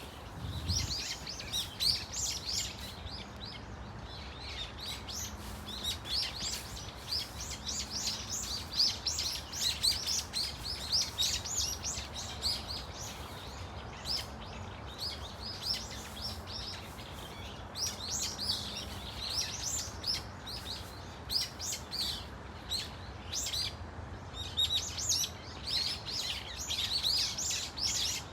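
A flock of brown-eared bulbuls calling, many short shrill calls overlapping one another without pause.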